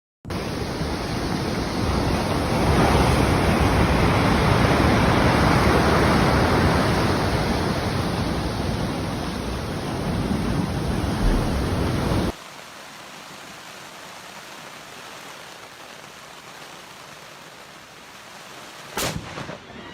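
Loud, steady rushing noise that cuts off abruptly about twelve seconds in, leaving a much quieter steady hiss, with a few sharp clicks near the end.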